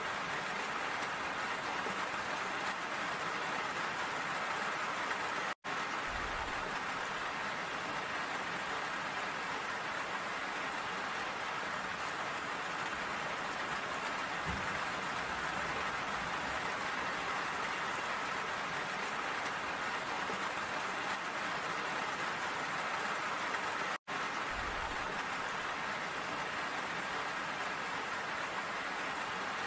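Steady rain falling, an even hiss of many drops. The sound cuts out for an instant twice.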